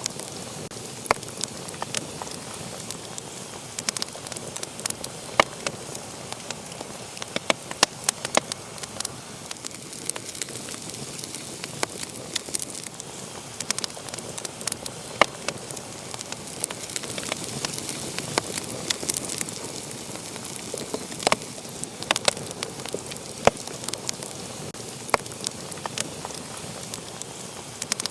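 Wood fire in a fireplace burning with a steady hiss and frequent sharp, irregular crackles and pops.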